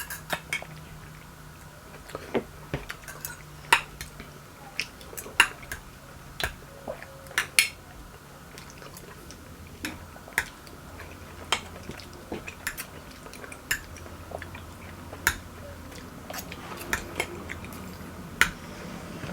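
Cutlery clicking and scraping against plates in short, sharp, irregular strikes, roughly one or two a second, as ripe papaya is eaten from them.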